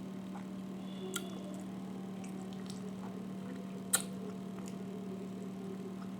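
A person eating quietly: small clicks of eating, with a sharp click about a second in and a louder one just before four seconds, over a steady low hum.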